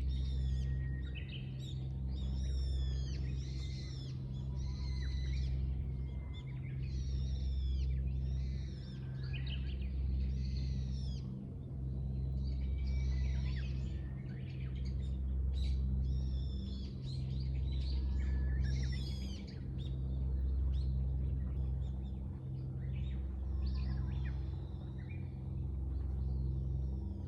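Songbirds singing and calling throughout, short repeated chirping phrases from more than one bird, over a louder low hum that swells and fades every couple of seconds.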